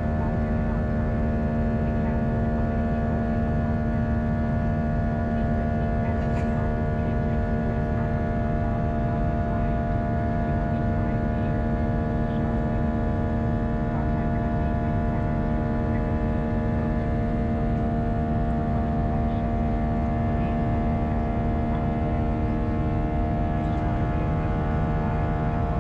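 Airbus A319's cabin noise in flight: the steady drone of its IAE V2500 engines and airflow, with several steady whining tones over it.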